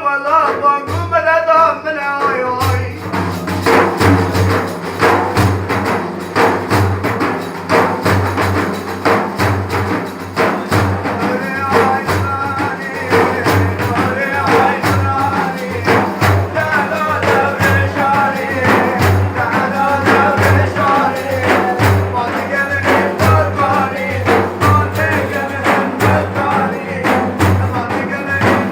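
Religious praise singing (madih): a voice chanting melodic lines over a steady frame-drum beat with jingling strikes.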